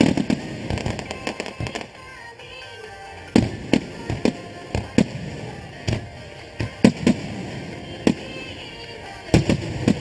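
Fireworks display: aerial shells bursting in a series of sharp bangs, thick and fast at first, a short lull about two seconds in, then bangs roughly every half second to second.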